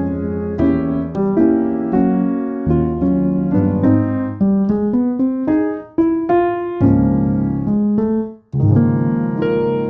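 Background piano music: single notes and chords struck one after another in a melodic line, with short breaks between phrases.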